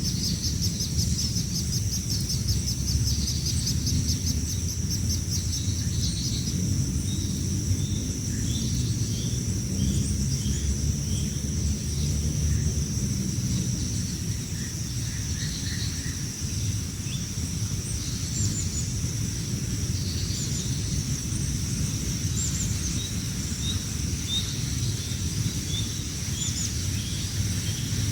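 Young birds chirping in short, repeated high calls: begging calls of hungry nestlings. A steady high-pitched drone runs beneath them, along with a low rumble.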